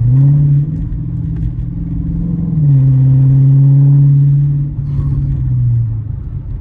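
Straight-piped Dodge Challenger R/T's 5.7 L Hemi V8, with resonator and mid-muffler deleted, accelerating: the exhaust note rises in pitch, drops briefly at a gear change about two and a half seconds in and pulls louder, then falls back to a lower drone near the end as the throttle eases.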